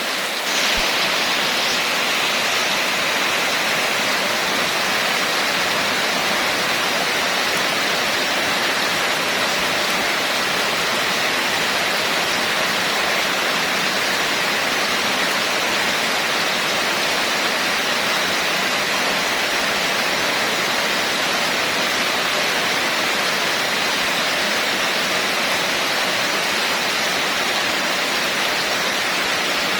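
Steady rain falling: a constant, even hiss that does not let up.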